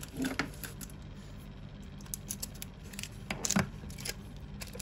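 Zippo lighters being handled: a scatter of light metallic clicks and clinks, with the loudest cluster about three and a half seconds in.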